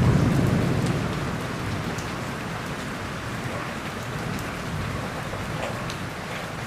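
Steady rain falling, with scattered drops ticking on a surface, as the tail of a rolling thunder rumble fades out over the first second or so.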